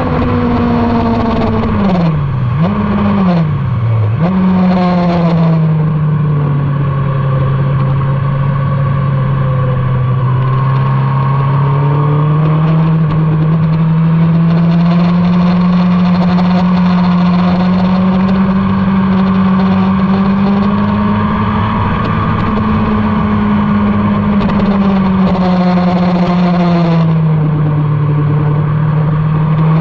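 Motorcycle engine running hard on a race track. Its note drops with two quick downshifts a few seconds in, then climbs slowly for a long stretch, falls again later and rises near the end. Wind rush comes and goes over the engine.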